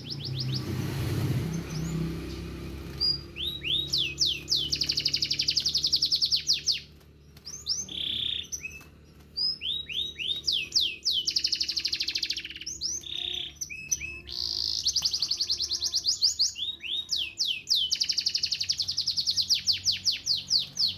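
Canary singing: long runs of fast trilled notes, each run a rapid string of repeated chirps, broken by short pauses about seven and nine seconds in.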